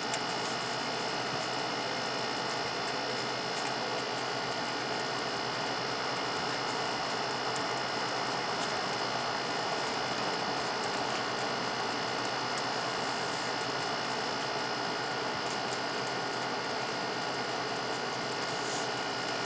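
A steady mechanical whir with a fine, rapid rattling texture and a few faint steady tones, unchanging throughout.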